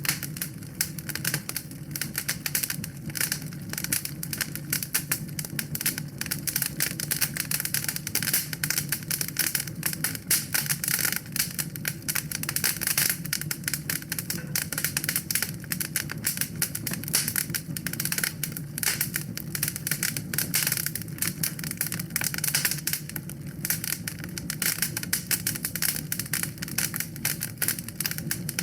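Wood fire burning in a fireplace, crackling with rapid, irregular pops and snaps over a steady low rumble.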